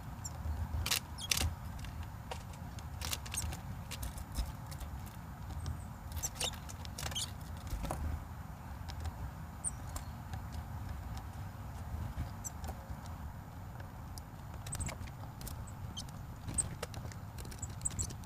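A bird feeding: irregular sharp clicks and taps of its beak on food, with a few short high peeps, over a steady low rumble.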